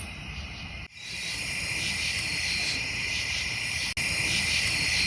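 Crickets chirping in a steady night chorus, cut off briefly about a second in and again near four seconds.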